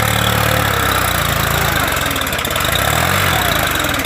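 New Holland TT55 tractor's diesel engine running steadily while driving a rotavator, its pitch dipping and rising back about three seconds in.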